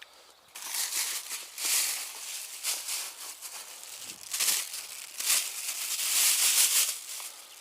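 Irregular rustling and crinkling that comes and goes in uneven surges.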